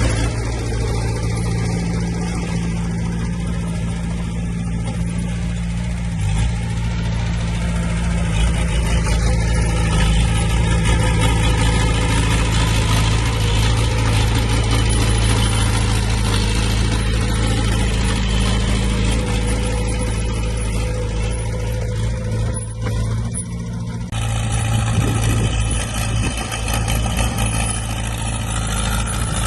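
Heavy diesel earthmoving machinery running steadily with a low engine drone. The sound shifts abruptly about 24 seconds in.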